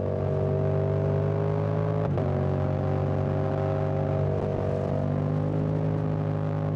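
Yamaha Tracer 7's CP2 689 cc parallel-twin engine running under way at fairly steady revs, its pitch easing slowly down, with a brief click about two seconds in.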